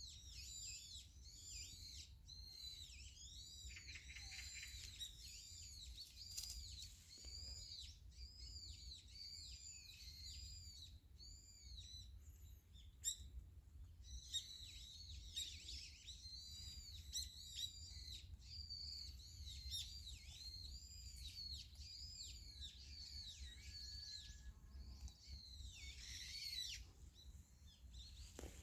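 Many small birds chirping over one another in a steady stream of short, high, arching chirps, over a faint low rumble.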